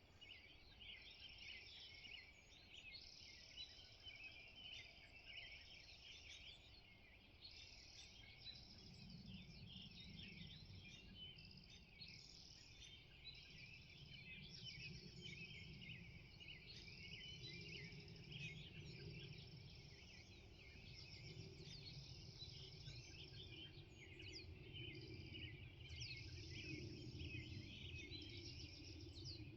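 Faint dawn chorus of many birds chirping and trilling over one another, with no pause. A low rumble comes in about a third of the way through and stays under the birdsong.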